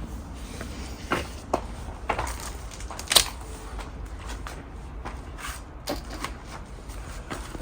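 Scattered light clicks and knocks at irregular intervals, the sharpest about three seconds in, over a steady low rumble.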